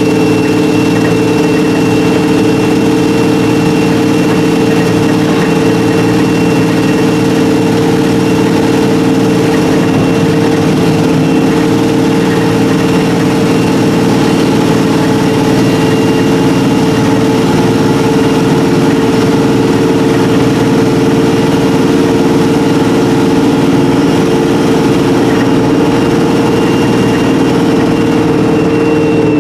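ADL E30D / Enviro300 single-decker bus with a Voith four-speed gearbox and a blown exhaust, heard from inside the cabin, its engine running at a steady, unchanging pitch with a constant hum and whine.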